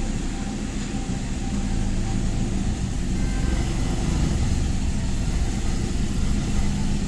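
Toyota Hilux Revo engine idling steadily.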